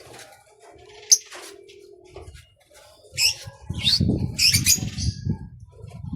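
Small birds chirping in short high calls, with a burst of wing flapping in the second half.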